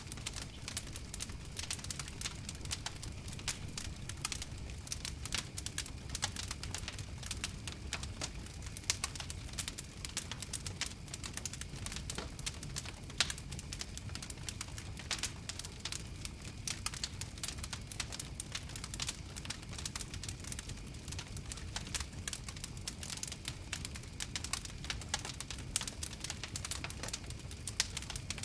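Wood fire crackling steadily: many small, sharp, irregular pops and snaps over a low rumble of the flames.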